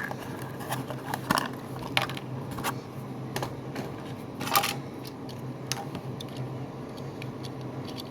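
Small plastic parts being handled and fitted onto a diecast toy car: scattered light clicks and taps, with a louder clicking rattle about four and a half seconds in, over a steady low hum.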